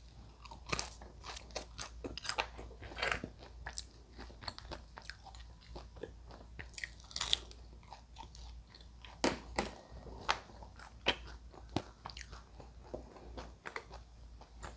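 A person chewing KFC french fries close to a clip-on mic, with irregular soft crunches and wet mouth sounds. The fries are crisp outside and soft inside.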